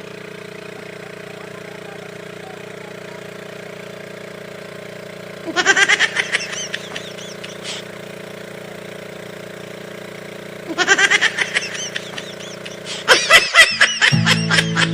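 An engine running steadily with an even hum, broken twice by short bursts of laughter. Near the end a few sharp clicks are followed by music starting.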